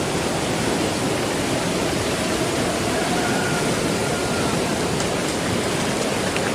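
Steady, even rush of water pouring through a dam.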